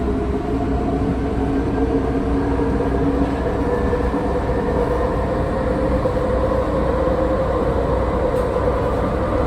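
Inside a moving PATCO Speedline railcar: a steady rumble and running noise, with a tone that slowly rises in pitch.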